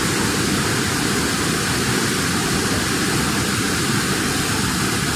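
Steady, loud rushing of water, with no change or break.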